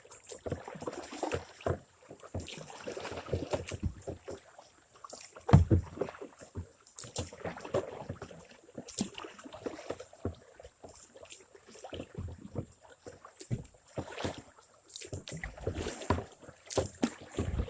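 Kayak being paddled through shallow shoals: paddle strokes splashing water, with scattered knocks and one louder thump about five and a half seconds in.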